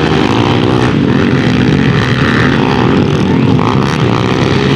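Several motorcycle engines running and revving at once, their pitches rising and falling over one another.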